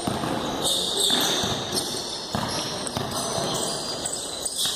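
A basketball bouncing on an indoor court during play, thudding several times at irregular intervals over steady gym background noise.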